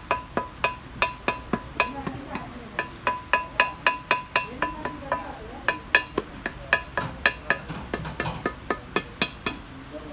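Hammer tapping on metal in a steady rhythm, about three or four blows a second, each with a short ring: typical of cutting a new gasket by hand by tapping the gasket material against the edge of a metal flange.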